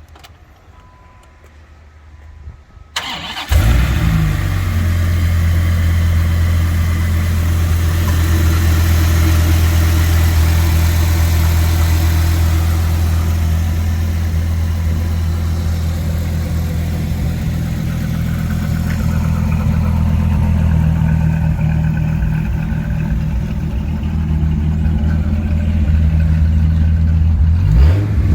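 2006 Dodge Viper's 8.3-litre V10 on a cold start: a short crank, then it fires about three seconds in and settles into a loud, steady fast idle. It is revved briefly a couple of times near the end.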